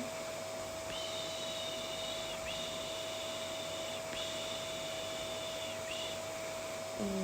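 Vacuum cleaner running steadily with a constant hum and hiss, used as soothing noise for a colicky baby. From about a second in, a high, thin tone sounds over it in four stretches, stopping about six seconds in.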